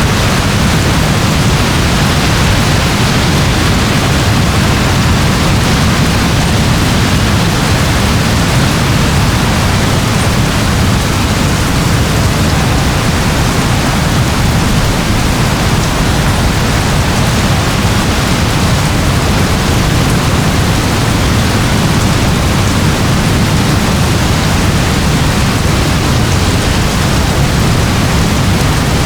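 Steady rain: an even, unbroken hiss over a deep low rumble, with no single claps or pauses.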